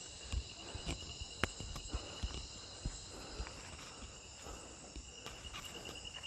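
Night insect chorus in tropical rainforest: a steady, high, finely pulsed trill with further high buzzing layers. Scattered soft knocks and rustles come and go.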